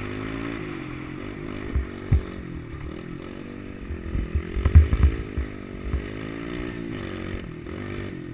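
Small pit bike engine running, its revs rising and falling as the bike is ridden, with loud low thumps and clatter scattered through, the heaviest cluster about halfway through.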